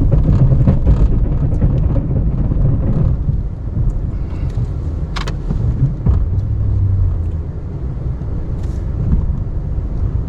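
Ram 1500 Classic pickup's engine running under load as it pushes snow with its plow, the rumble swelling at the start and again about six seconds in. A single sharp click about five seconds in.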